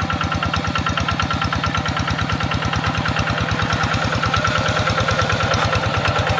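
Tractor engine running steadily with a rapid, even beat and a steady high whine over it.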